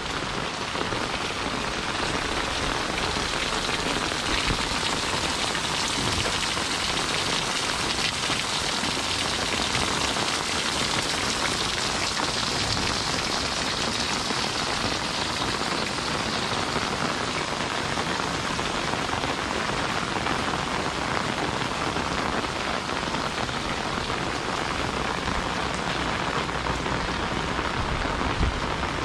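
Heavy rain falling steadily on an umbrella overhead and on wet ground and puddles, an even, dense hiss that holds at the same level throughout.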